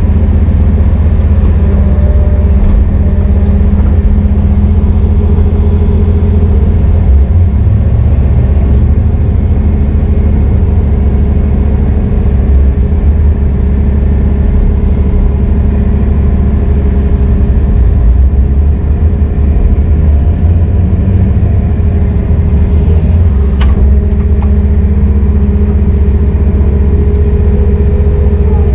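Heavy diesel engine running loudly and steadily with a deep hum, with no speech over it.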